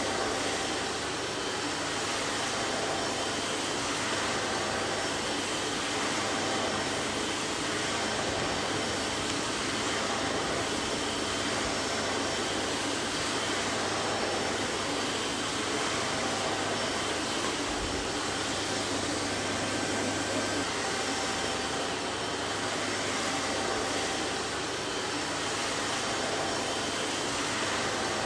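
Vacuum cleaner running steadily: an even rushing whoosh of air with a faint steady whine, unchanging throughout.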